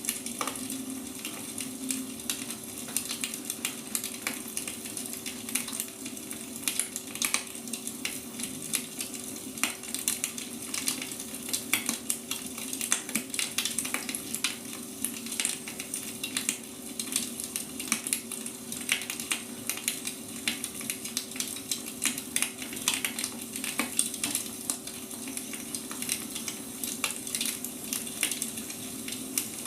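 Wood fire crackling: irregular sharp snaps and pops of burning firewood over a steady hiss, with a faint constant low hum underneath.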